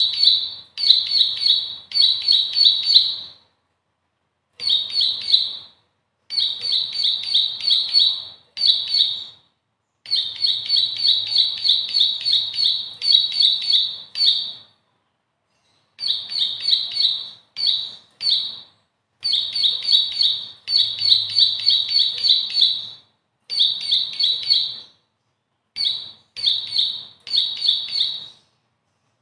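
Bar-winged prinia (ciblek) singing: phrases of rapid, repeated high chirps, about four a second, each phrase lasting one to four seconds, with short silent breaks between phrases.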